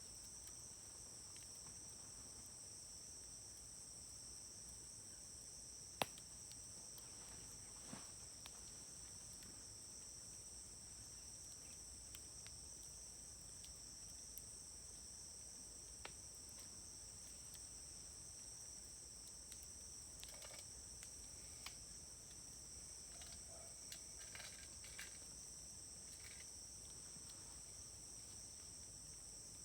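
Wood campfire crackling faintly, with a few sharp pops, the clearest about six seconds in and another near sixteen, and small bursts of crackle past twenty seconds. Under it runs the steady, high-pitched chirring of crickets or other night insects.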